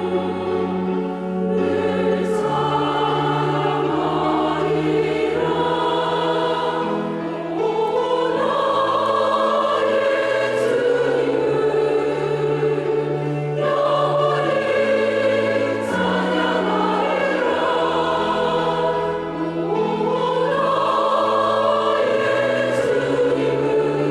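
Church choir singing an anthem in parts over long held low notes, the voices swelling into new phrases every few seconds.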